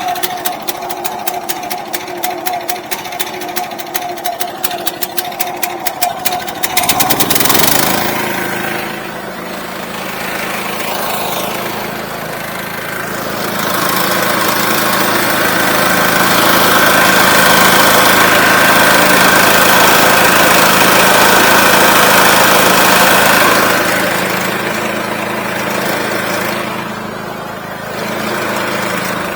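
Engine idling with a rapid, even beat, then revving up about seven seconds in, running hard and loud through the middle, and easing back near the end.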